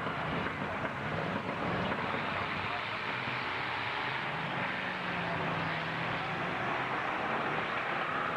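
Din of a demolition derby arena: truck engines running amid crowd noise. About four seconds in, a steady low tone holds for a couple of seconds.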